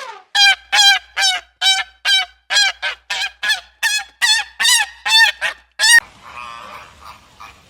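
Goose honking in a fast run of about fourteen loud calls, two or three a second, stopping about six seconds in; fainter, mixed calls follow.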